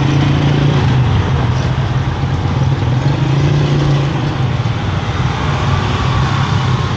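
A motor vehicle's engine running steadily: a low hum with a noisy rush over it.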